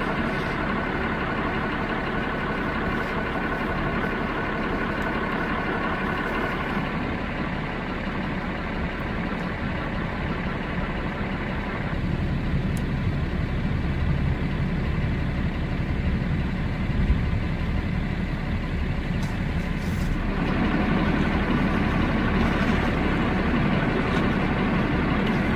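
Pickup truck engine running at low speed or idling, a steady low hum whose tone shifts a couple of times.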